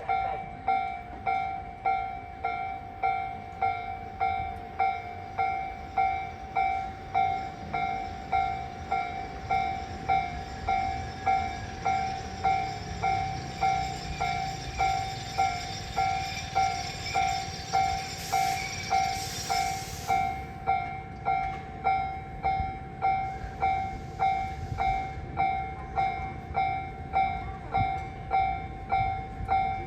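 Level crossing alarm bell ringing steadily at about three strokes every two seconds. Under it, the low rumble of a Tobu 8000 series electric train builds through the middle, with two short hisses of air about two-thirds of the way in.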